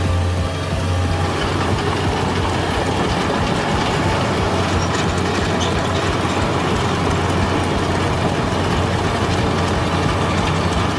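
Heavy machinery running: a steady low engine drone with continuous metallic clanking and rattling.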